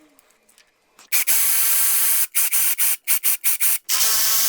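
Cordless power tool motor whining as it spins out the fuel pump bolts on a Ford 300 inline-six. A steady run starts about a second in, then a quick string of short trigger bursts, then another long steady run.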